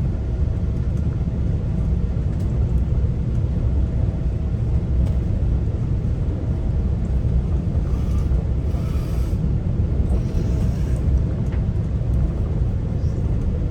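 Commuter train running along the line, heard as a steady low rumble from inside the coach, with a faint steady hum. Brief soft hissing comes twice in the second half.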